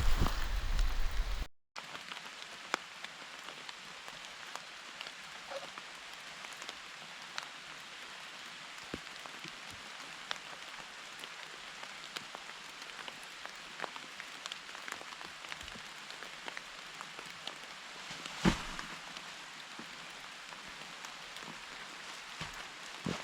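Steady rain falling through a forest, an even hiss with many separate drops ticking. A single louder knock comes late on. It opens with a second and a half of low rumble that cuts off abruptly.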